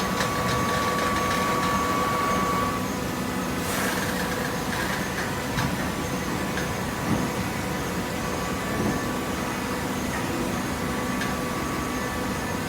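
Hydraulic cardboard baler running: a steady machine hum of its motor and pump with a few held tones, dropping slightly in level about three seconds in.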